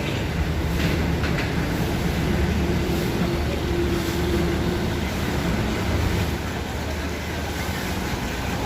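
A bus running, a steady low engine and road rumble with a faint whine about two to five seconds in.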